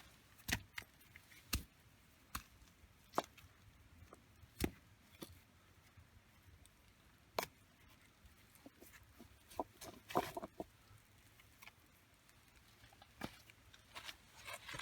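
Scattered light clicks and knocks at irregular intervals, with a short cluster of them about two-thirds of the way through, over a quiet background.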